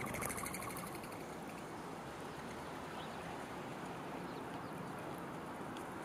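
Faint chirps from wild birds over a steady outdoor hiss, with a brief, rapid pulsing burst in the first second.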